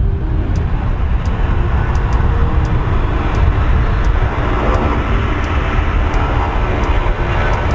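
Airplane engine noise: a loud, steady, heavy rumble with a rushing hiss above it.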